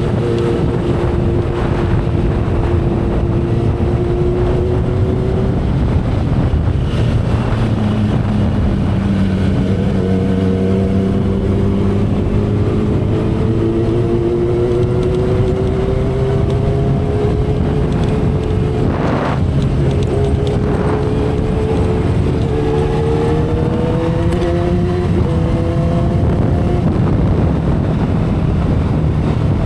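2012 Kawasaki Ninja ZX-10R's inline-four engine pulling at expressway speed from the saddle, its note rising slowly and shifting pitch several times with the throttle, under heavy wind rush on the microphone. A brief rush of noise about two-thirds in.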